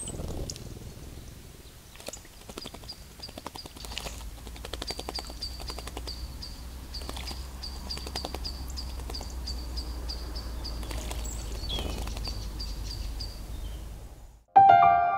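A bird repeats a high, short call about three times a second, over a low steady rumble. Splashing and wing-flutter come from a small songbird bathing in shallow water. Near the end the sound cuts out and soft piano music begins.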